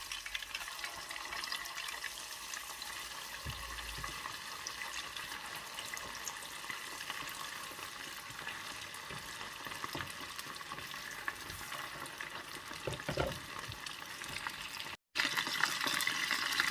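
Cornflour-coated chicken wings frying in shallow oil, a steady crackling sizzle. It breaks off for a moment near the end and comes back a little louder.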